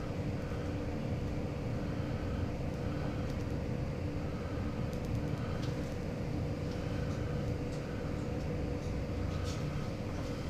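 Train running: a steady low rumble with a faint steady hum and a few light clicks.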